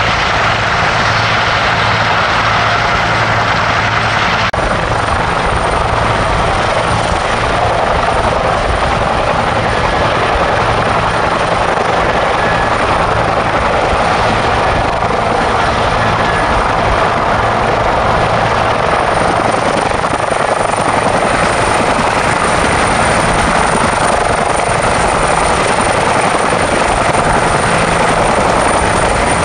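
Helicopter turbine engines and rotors running loud and steady, with a thin high turbine whine over the rotor and engine noise. The sound changes abruptly about four seconds in, where some low steady engine tones drop out.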